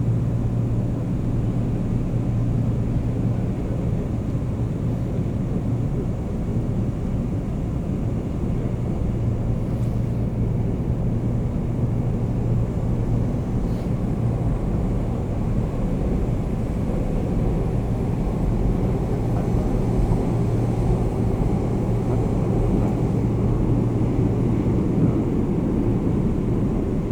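Seoul Metro Line 9 train heard from inside the carriage while running between stations: a steady rumble of wheels and running gear with a constant low hum.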